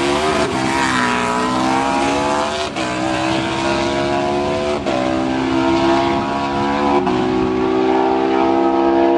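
Harley-Davidson Destroyer drag-racing motorcycles accelerating hard down the strip. The engine note rises through the gears, dropping in pitch at each upshift, about every two seconds, four times, then holds high near the end.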